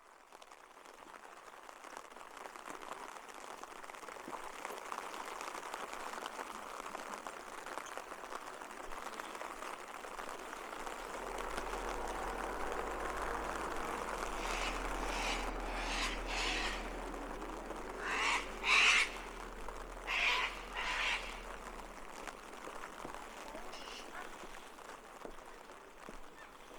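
Steady outdoor hiss of rain, with a bird giving a run of short, harsh calls, several in pairs, about halfway through and once more near the end.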